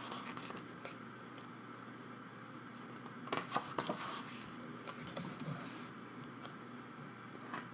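Thick, heavyweight photobook pages being turned and handled: faint paper scrapes and soft flicks, with a small cluster about three seconds in and another around five seconds, over low room hiss.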